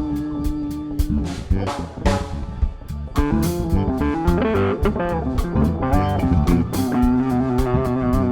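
Guitar solo over a live funk band with drum kit and bass, heard straight from the sound board: a long held note at the start, quick runs of notes in the middle, and another long held note near the end.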